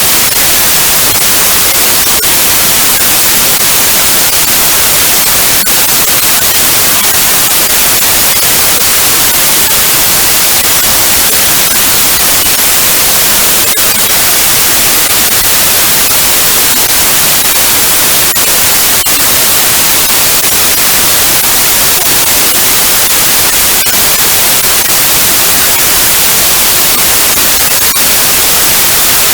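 Computer-generated white noise: a loud, steady, even hiss across the whole range of pitch, with no change.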